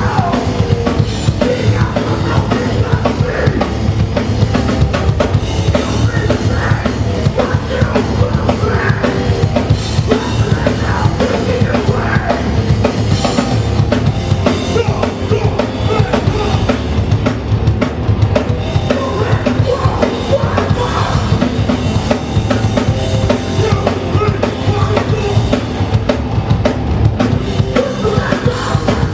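Hardcore punk band playing live: fast, driving drums with distorted guitars and bass at full volume, recorded from the crowd at a loud venue.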